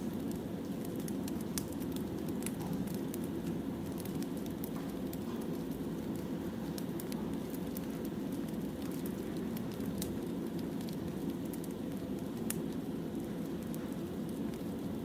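Firewood burning in a fire: scattered sharp crackles and pops over a steady low rumble.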